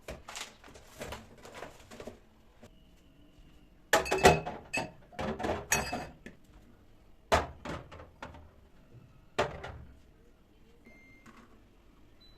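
Objects being handled in a kitchen: light rustling, then a burst of clattering and knocking about four seconds in, and two single sharp thuds later. A brief high tone sounds around three seconds in.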